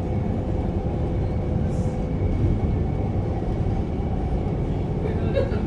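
Electric suburban train running along the track, heard inside the carriage: a steady low rumble of wheels and running gear with a faint steady whine over it.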